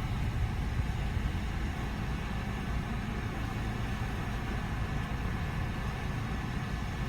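Car engine idling steadily, a low rumble heard from inside the cabin.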